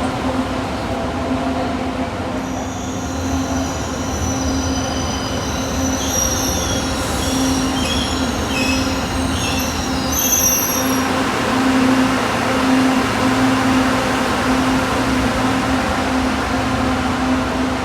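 LRTA Line 2 light-rail train running, its wheels squealing on the rail for several seconds in the first half, over a steady hum.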